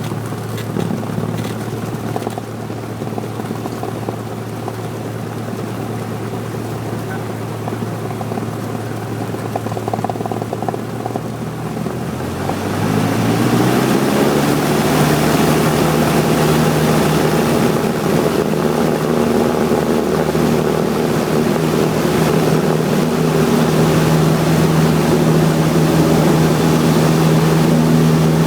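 Cessna 172's piston engine and propeller heard from inside the cabin, running steadily at reduced power. About twelve seconds in the throttle is opened: the engine note rises in pitch over a couple of seconds, gets louder and holds at high power.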